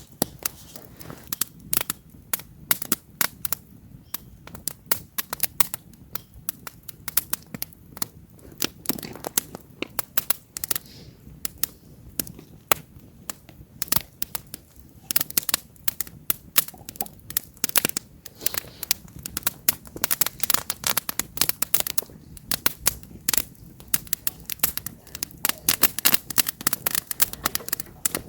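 Wood campfire crackling, with irregular sharp pops and snaps from the burning logs over a faint hiss, busier in spells.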